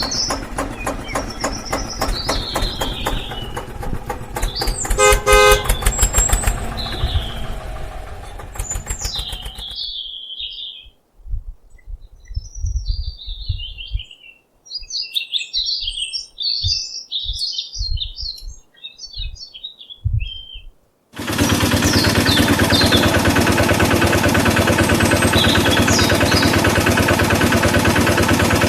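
Birds chirping over a running engine, with a horn toot about five seconds in; the engine drops out for a while, leaving the birdsong and a few low thumps, then a loud, steady engine starts running about two-thirds of the way through.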